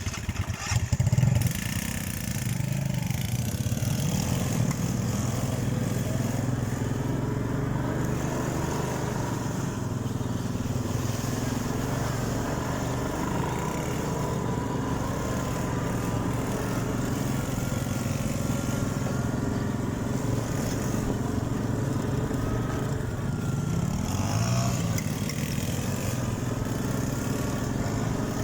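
Small off-road vehicle engine running steadily, its pitch rising and falling gently with the throttle, with a short rev up and back down near the end.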